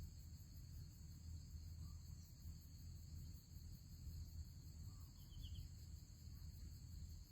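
Faint, steady high insect chorus over a low rumble, with a brief faint bird chirp about five seconds in.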